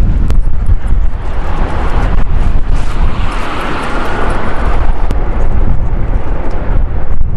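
Wind buffeting the microphone with a heavy low rumble, while an engine's noise swells and fades in the middle.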